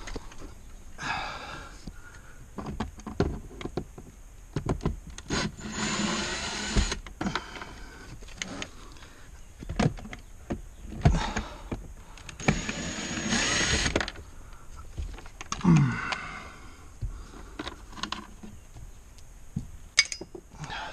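Plastic dashboard trim and wiring connectors being handled and pulled apart: scattered clicks and knocks, with two longer scraping rustles of plastic parts sliding, each about a second long.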